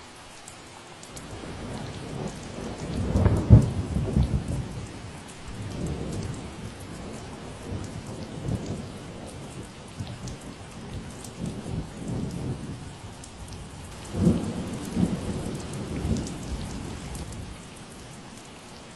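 Steady rain falling, with a long roll of thunder. The rumble builds about a second in, peaks loudest around three and a half seconds, rumbles on, swells again around fourteen seconds and fades near the end.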